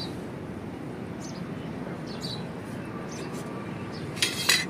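Steady outdoor background with a few faint, short, high bird chirps, then a brief loud rush of noise near the end.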